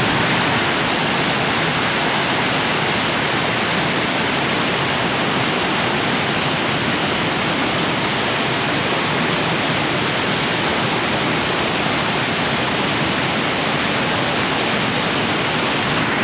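Steady, even rushing noise that starts abruptly after a brief silent cut and holds the same level throughout.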